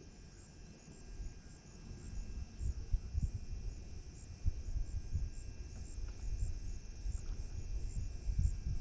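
Insects chirping steadily in a high, even pulse about three times a second, over uneven low buffeting on the microphone that comes and goes and is the loudest sound.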